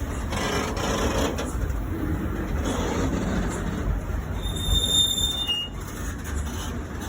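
Train wheels running on the rails with a steady rumble. A thin, high-pitched wheel squeal sounds for about a second around two-thirds of the way through.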